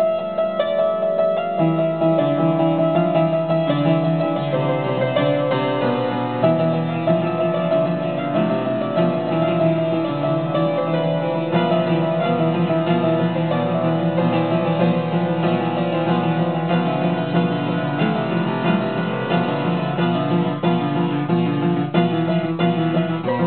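Solo piano playing, a continuous flow of sustained notes and chords in an improvised composition.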